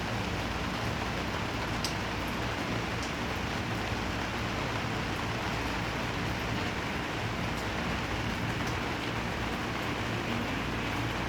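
Black pork grilling over an oak wood fire: a steady sizzling hiss with a few sharp crackles scattered through, over a low steady hum.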